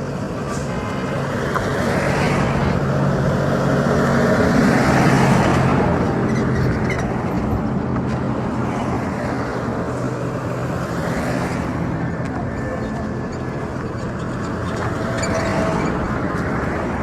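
Road traffic: a steady engine hum with vehicles passing, the noise swelling and fading about three times.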